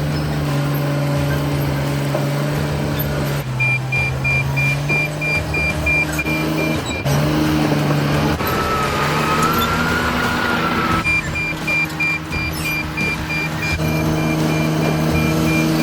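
Cat D7 bulldozer's diesel engine running steadily, its pitch shifting as the load changes. Its reverse alarm beeps rapidly twice for a few seconds each, from about three seconds in and again in the last third, as the dozer backs up. In between, a higher whine rises and falls for a couple of seconds.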